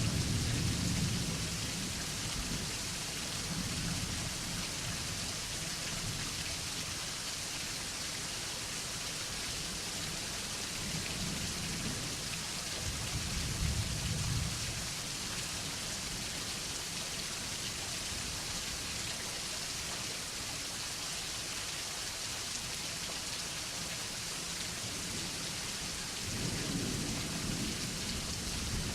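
Steady rain falling in a thunderstorm, with low rolls of thunder rumbling at the start, twice around the middle, and again near the end.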